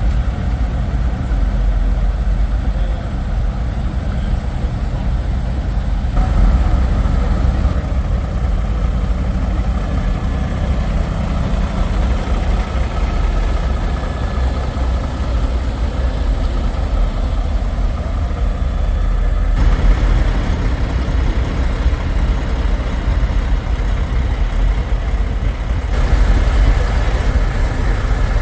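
Semi trucks' diesel engines idling with a steady low rumble. The background changes abruptly a few times, at about six seconds, around twenty seconds and again near the end.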